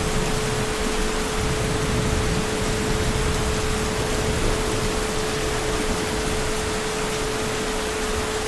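Heavy rain falling as a steady, even hiss, with a constant thin tone held underneath it.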